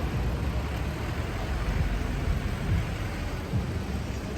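Busy city street traffic: a steady, even rumble of passing road vehicles.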